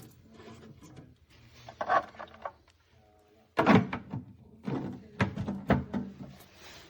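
Several knocks and thunks of objects being handled and set down: a short cluster about two seconds in, then a busier run of knocks in the middle.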